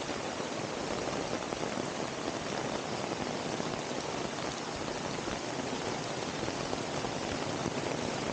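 Steady rain falling, a dense, even wash of drops with no single louder event.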